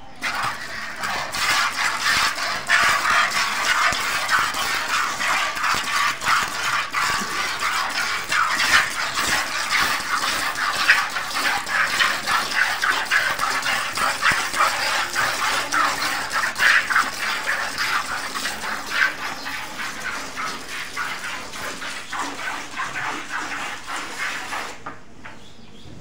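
Cow being milked by hand: milk squirting from the teats into a pail in quick, rhythmic spurts, one spurt for each squeeze of the teat.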